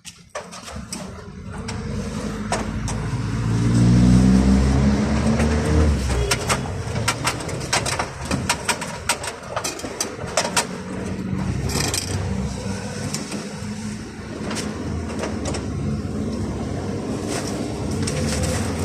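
A motor vehicle engine running and revving up, rising in pitch over the first few seconds and then holding steady, with many sharp clicks and knocks scattered through it.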